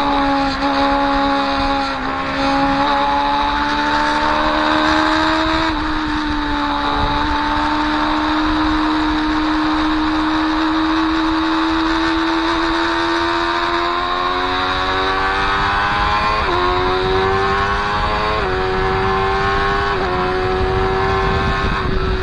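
Motorcycle engine at high revs, heard from a camera on the bike over a steady rush of wind noise. The engine note climbs slowly, then jumps up sharply several times in the last few seconds.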